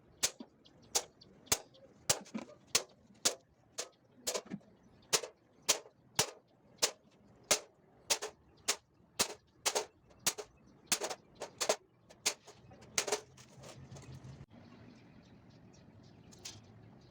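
Hammer tapping a center punch into a sheet-metal floor pan, sharp metal taps coming nearly two a second as each beading-line endpoint is punched. The taps stop about thirteen seconds in, leaving a faint low hum.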